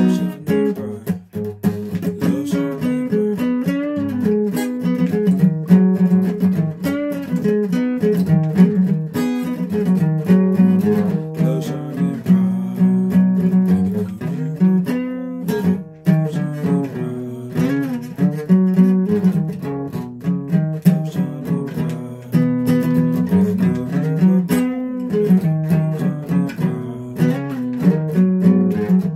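Guitar being played: picked notes and strummed chords following one another in a continuous flow.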